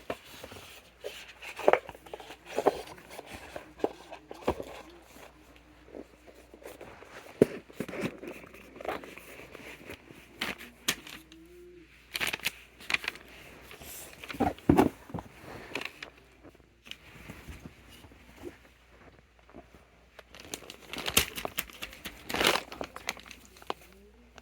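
Plastic fidget toys being handled and set down: scattered taps and clicks with crinkling rustles.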